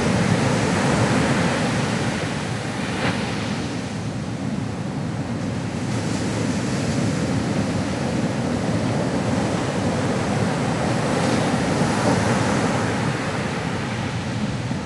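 Ocean waves breaking and washing on a shore in a steady wash of surf, swelling and easing slowly.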